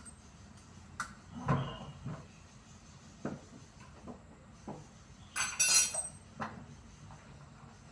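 Sporadic knocks and metallic clinks of tools and parts being handled while a washing machine is taken apart. There is a duller thump about a second and a half in and a louder jangling metal clatter a little after five seconds.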